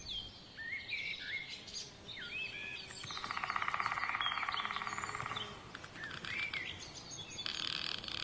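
Woodland birdsong: several small birds chirping with short, sweeping notes. A rapid buzzing trill comes in about three seconds in and lasts a couple of seconds, and another starts near the end.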